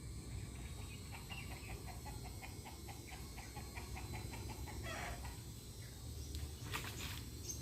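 An animal call: a rapid run of short repeated notes, about six a second, lasting several seconds. A rustling burst follows about five seconds in, then a few sharp clicks near the end, over a steady low rumble.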